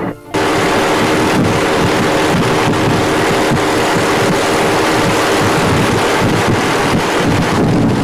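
Motorcycle engine running while riding, with steady wind noise buffeting the microphone; it starts abruptly just after a short gap at the start.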